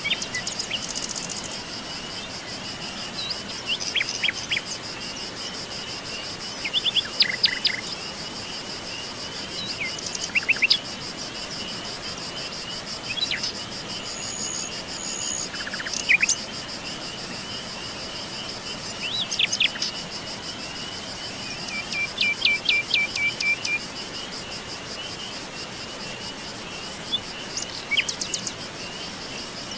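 Songbirds chirping and calling every few seconds over a steady, high-pitched insect trill. One bird gives a quick run of repeated notes a little past the middle.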